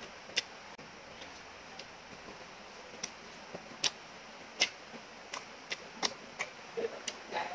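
Close-miked chewing of beef curry: irregular sharp, wet mouth clicks and lip smacks, coming more often toward the end.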